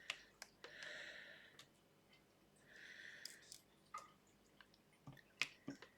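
Near silence: two faint breaths, about one second in and about three seconds in, with scattered light clicks in between.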